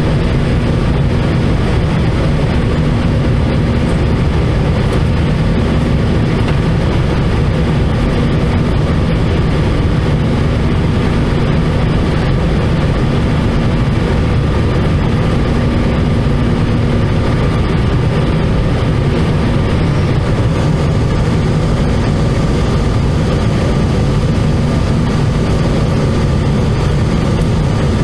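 Airbus A320-214 cabin noise in flight: its CFM56 jet engines and the airflow make a steady, loud drone, with a low hum and a faint, steady higher whine.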